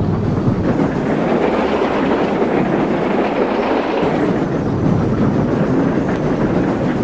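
An old engine running: a loud, steady rumble with a rushing noise over it.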